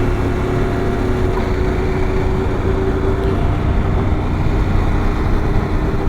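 Motorcycle engine running at a steady cruise, with road and wind noise.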